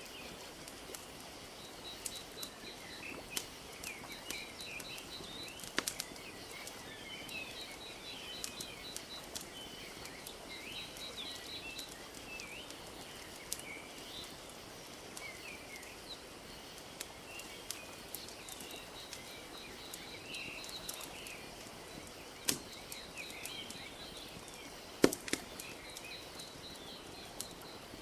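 Wood fire crackling with scattered sharp pops, two louder ones past the middle, over a steady bed of gently lapping lake water. Small birds chirp throughout, with quick ticking trills.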